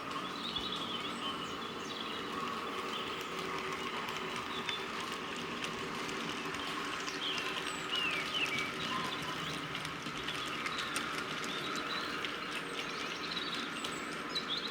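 N gauge model class 31 locomotive running along the layout track, a steady motor tone with faint clicking from the wheels. Short recorded bird chirps from a Gaugemaster rural sounds unit play over it.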